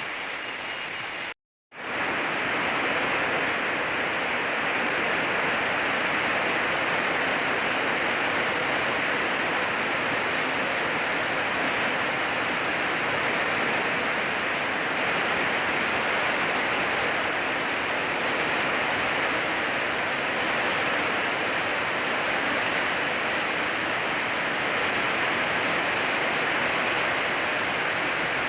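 Rain falling steadily, a dense even hiss, cut off by a brief dropout to silence about a second and a half in.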